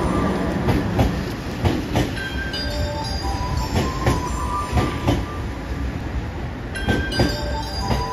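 Train running past close by: a steady rumble with irregular clacks of the wheels over rail joints and short high-pitched squeals from the wheels.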